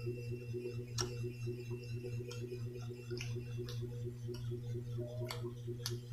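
Chewing of a chocolate-covered nougat and caramel bar, with several short sharp clicks from the bite and mouth, over a steady low hum that pulses rapidly.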